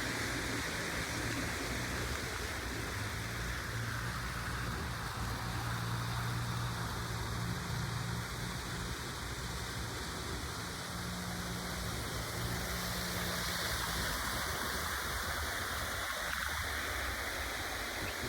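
OO gauge model trains running on an outdoor garden layout: a steady whirring rush of wheels on track with a low motor hum, the hum fading out about three-quarters of the way through.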